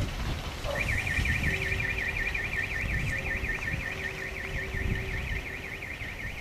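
An electronic alarm warbling rapidly up and down, about five times a second, starts about a second in, over a low rumble that fades near the end.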